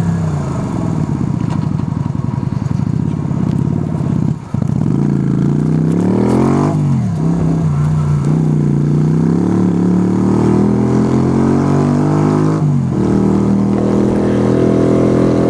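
Yamaha YBR 125's single-cylinder four-stroke engine under way. Its pitch climbs and falls as it accelerates and shifts, with brief dips at gear changes about four and a half and thirteen seconds in.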